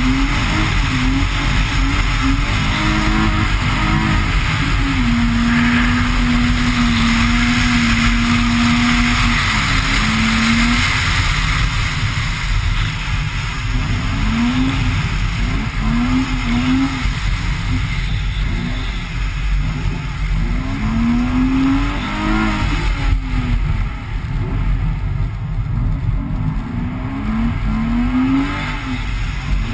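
BMW E30's engine revving hard as the car is driven on snow: the pitch holds steady for a few seconds, then climbs and falls again and again over a steady rushing noise.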